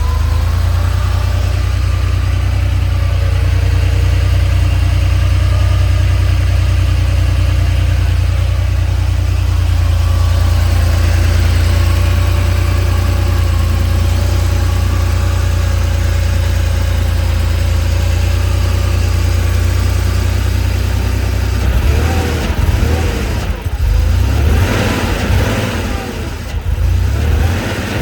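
1988 Porsche 911 Carrera's 3.2-litre air-cooled flat-six idling steadily just after a cold start; in the last several seconds the engine note rises and falls a few times.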